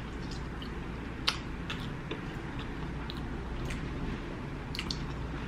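A person chewing a mouthful of breaded fried food, with scattered small clicks and crunches every half second or so over a low steady hum.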